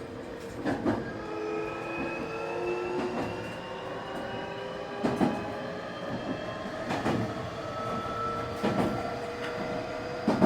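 Semboku 9300-series train's Hitachi SiC VVVF inverter and traction motors whining, several tones climbing slowly in pitch as the train picks up speed. Wheels clack over rail joints every second or two.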